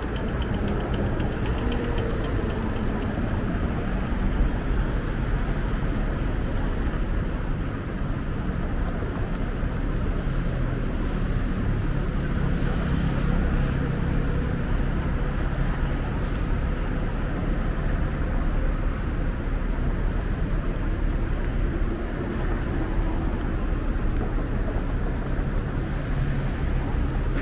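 City street traffic noise: a steady mix of passing vehicles with a deep low rumble, and a brief hiss about thirteen seconds in.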